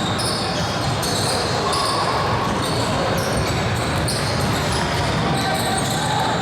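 A basketball bouncing on a gym court, repeated short knocks over a steady din of voices echoing in a large hall.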